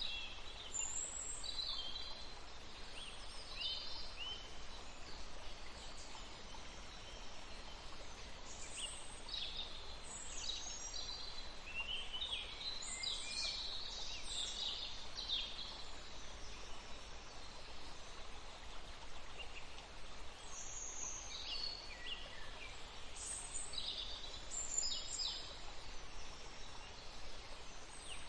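Birds singing: short, high chirps and quick falling notes, busiest in the middle and again in the last third, over a steady faint hiss.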